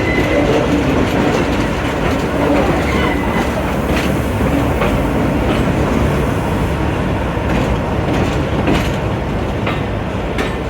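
A train running along the track with a steady rumble, its wheels clicking over rail joints a handful of times.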